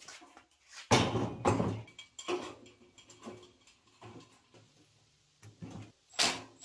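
Knocks and rattles from the old grill's parts being handled and fitted together while the cart's bottom frame is assembled. The loudest knock comes about a second in, with a few more after it.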